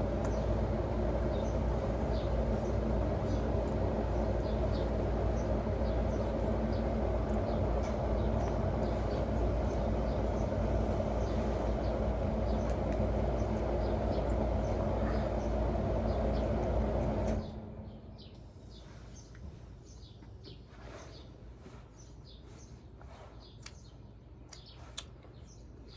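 A steady machine hum that cuts off abruptly about seventeen seconds in, leaving quieter background with many short, high bird chirps.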